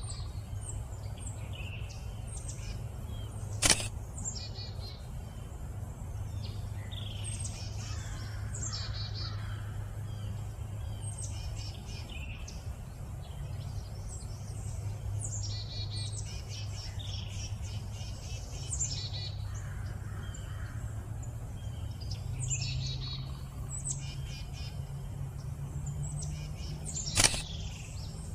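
Several small songbirds chirping and calling over and over, over a steady low hum. Two sharp clicks, one about four seconds in and one near the end, are the loudest sounds.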